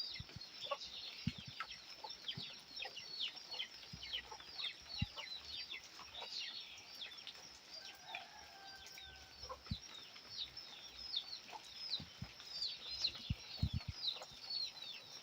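Birds chirping, a steady run of many short, high, falling chirps, with a few soft low knocks.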